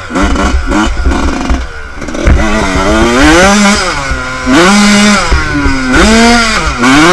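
Motocross bike engine revving up and down repeatedly, its pitch climbing and dropping four or five times, with some clatter and rough running in the first couple of seconds.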